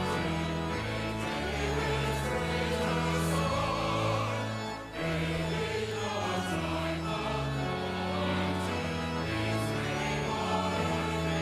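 Church choir singing a hymn with pipe organ accompaniment, in sustained phrases over held low organ notes, with a brief break between phrases about five seconds in.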